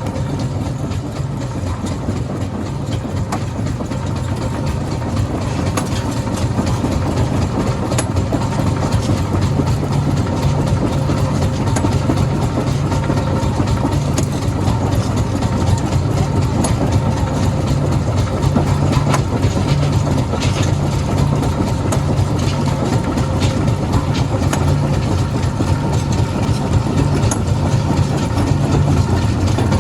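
Heavy machinery running steadily with a low engine hum, with scattered sharp knocks throughout.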